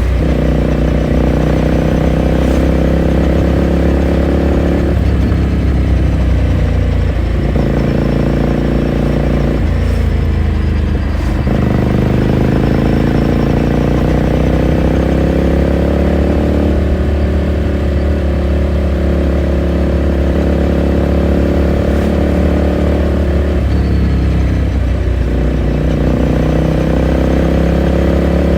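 Ducati Scrambler Sixty2's 399 cc air-cooled L-twin running under way, heard from the rider's seat. The engine note climbs as the bike accelerates, then drops back several times as it shifts gear or rolls off the throttle.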